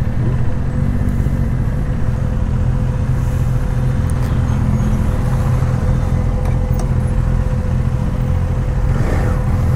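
Motorcycle engine running steadily while being ridden, its pitch holding even throughout.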